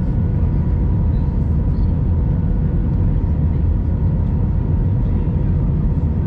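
Steady in-cabin noise of an Airbus A319 on final approach: a constant low rumble of airflow and its CFM56 engines, with a faint steady hum on top.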